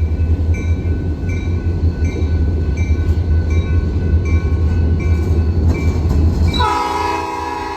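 Railroad crossing bell ringing steadily, a little over one strike a second, over a heavy low rumble. About six and a half seconds in, a locomotive air horn begins sounding a multi-note chord.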